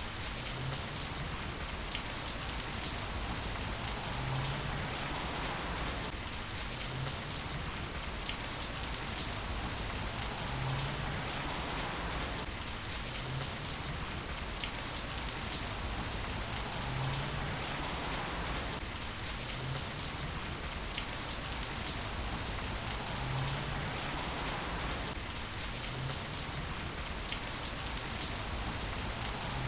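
Heavy rain falling steadily, with scattered sharp drop taps. The same stretch of sound repeats about every six seconds.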